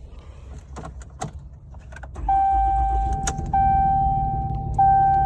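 Diesel pickup engine starting straight away and settling into idle about two seconds in, after a few soft clicks. A dashboard warning chime sounds over it, repeating about every second and a half.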